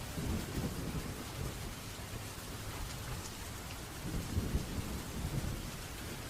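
Steady rain falling, with low rumbles of thunder swelling up near the start and again about four seconds in.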